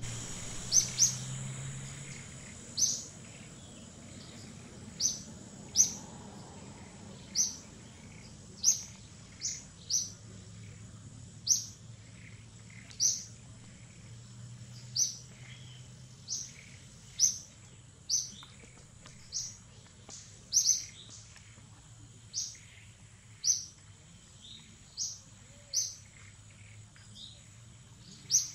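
A bird chirping: short, sharp, high notes repeated about once a second at an uneven pace, over a faint steady high-pitched whine.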